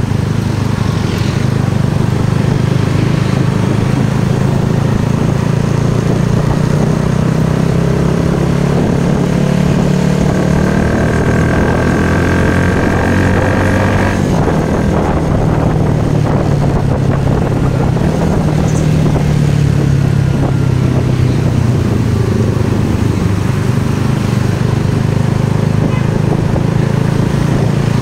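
Usagi motorcycle engine running under way, its pitch rising and falling over the ride.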